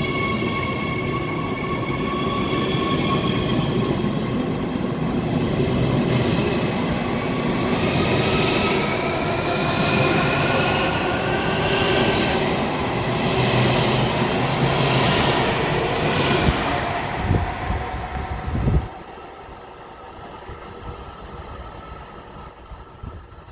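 Electric train running past, with rumbling wheels on rail and motor whine in several tones that climb in pitch through the middle. The sound drops sharply near the end.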